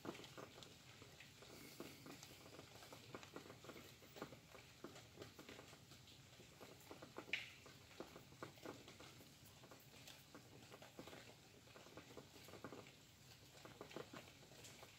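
Faint rain pattering, with many small irregular drips and ticks and one sharper tick about halfway through.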